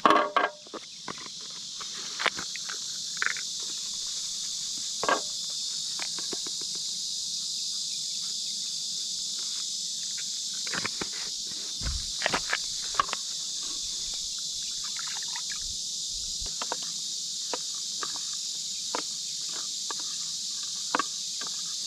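Steady high-pitched drone of insects, with scattered short clicks and knocks.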